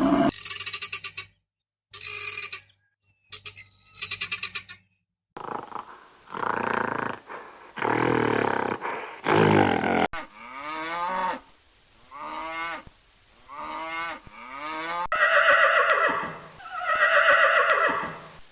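A run of animal calls from several different clips, cut one after another. First come short pulsed calls. Then long loud calls, then a series of about four calls that each fall in pitch, about a second apart. It ends with two long calls.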